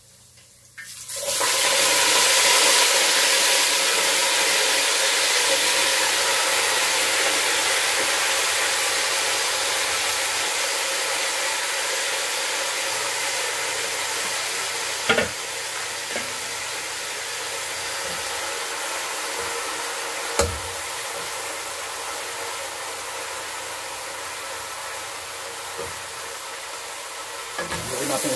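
Fresh water spinach (kangkong) dropped into a pot of hot oil, where it sizzles loudly from about a second in and slowly dies down as it sautés. Two sharp knocks sound partway through.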